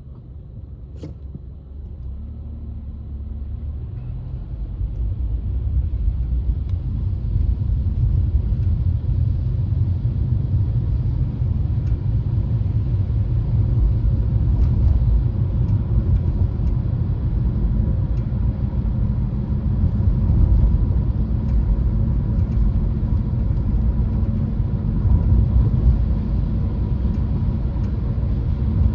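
Car driving, a steady low rumble of engine and road noise that builds over the first several seconds and then holds.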